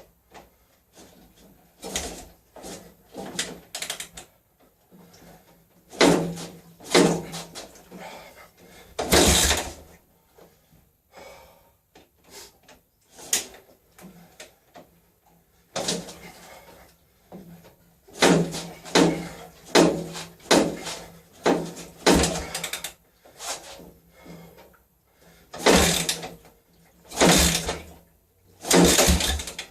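Yamaha XT600's single-cylinder four-stroke engine being kick-started again and again after a rebuild: about twenty short bursts as it is kicked over, in irregular groups with pauses between, without settling into a steady run.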